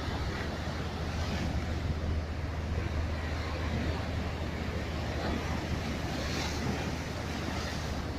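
Sea waves washing in, with wind buffeting the microphone in a steady low rumble; the wash swells twice, about two seconds in and again near six and a half seconds.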